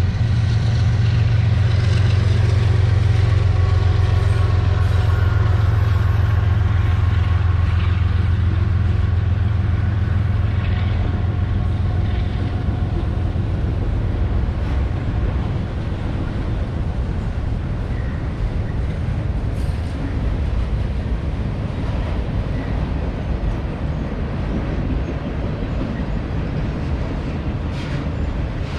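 Freight train passing: a steady, loud low rumble of diesel locomotive engines and rolling cars, easing slightly after the middle.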